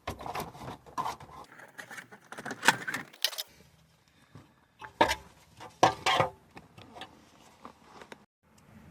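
Plastic dashboard trim panel being prised and popped loose by hand: a run of clicks, rattles and plastic knocks, loudest about three, five and six seconds in.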